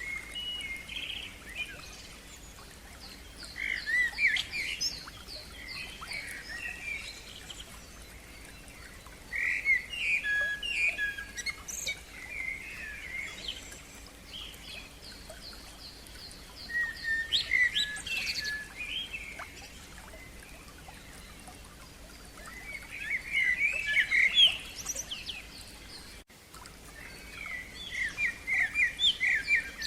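A songbird singing in short phrases of rapid repeated chirps and trills, a new phrase every five or six seconds.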